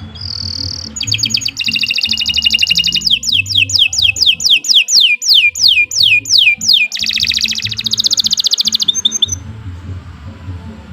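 Domestic canary singing a long song: a high whistle, then fast trills, then a run of downward-sweeping notes at about three a second, then another fast trill. The song stops about a second and a half before the end.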